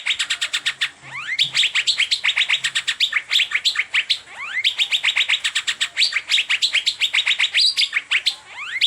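Asian fairy-bluebird (cucak biru) singing a fast, rapid-fire run of sharp repeated chirps. A few rising whistled glides are mixed in, with brief breaks about a second in and near the end.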